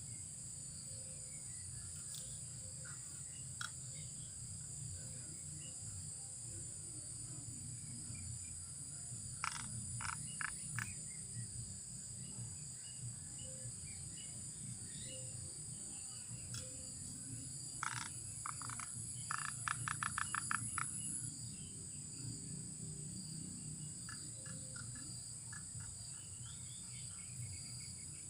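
Steady high shrill of insects in a marsh at night, with two bursts of short, rapidly repeated animal calls, about ten seconds in and again from about eighteen to twenty-one seconds in, the second burst at roughly eight pulses a second.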